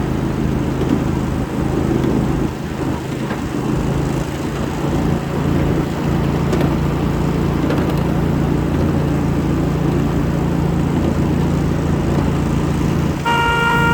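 The small engine of a 7.5-inch-gauge ride-on locomotive running steadily as it pulls a train of riding cars. Near the end a steady horn begins to sound.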